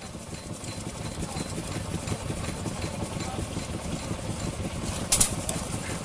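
A vintage engine running steadily with rapid, even firing, and one sharp click about five seconds in.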